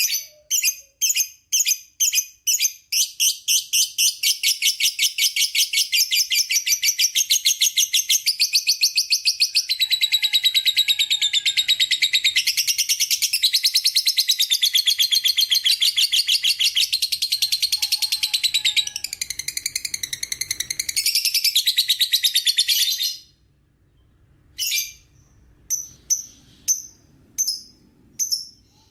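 Lovebird 'ngekek': single high chirps quicken into one long, very fast, unbroken chatter lasting about twenty seconds. It stops abruptly, and after a short pause a few separate chirps follow near the end.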